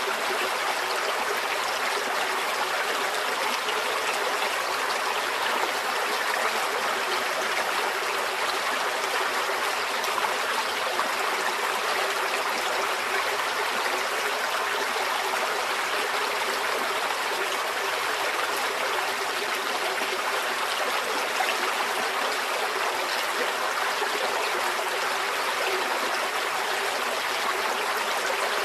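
Small forest stream flowing over stones, a steady trickling and babbling water sound with no changes.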